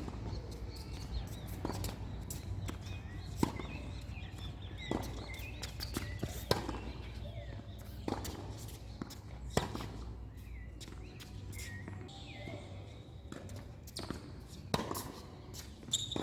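Tennis rally: sharp racket-on-ball hits and ball bounces about a second and a half apart, with a pause of a few seconds past the middle before the hits resume. A steady low rumble runs underneath.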